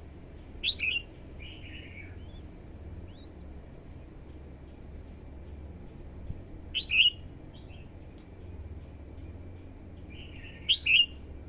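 Red-whiskered bulbul singing short, sharp song phrases three times, a few seconds apart, with a few faint notes in between, over a steady low hum.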